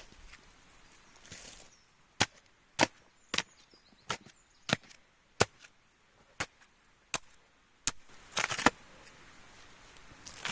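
Wood being chopped: about ten sharp, crisp strikes, roughly one every half second or so, followed by a short crunching rustle near the end.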